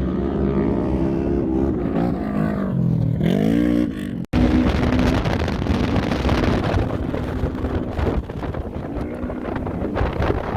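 UTV short-course race car engines running on a dirt track, the pitch rising and falling with the throttle. After a sudden cut about four seconds in, the sound turns to a rougher, noisier wash of engine sound mixed with wind on the microphone.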